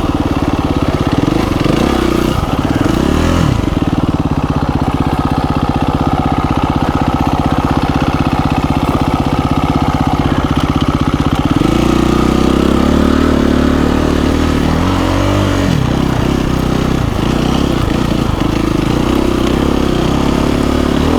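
The KTM 350 EXC-F dirt bike's single-cylinder four-stroke engine running under way off-road. The revs rise and fall, hold fairly steady for several seconds in the middle, then the note changes about twelve seconds in, with more rising and falling after that.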